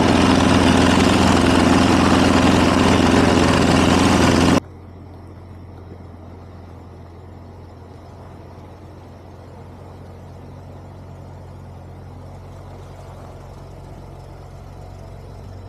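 Gas snowblower engine running loud and steady, then an abrupt cut about four and a half seconds in to a much quieter, steady low engine hum.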